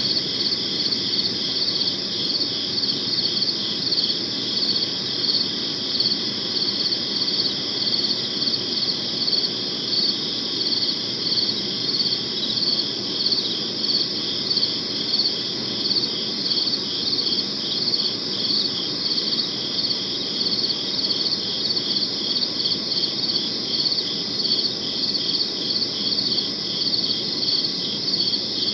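Crickets chirping in a steady chorus, high-pitched pulses repeating evenly, over a low, even background hiss.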